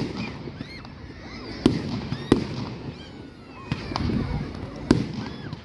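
Fireworks display: four sharp bangs of shells bursting, a little over a second apart, over the murmur of a watching crowd.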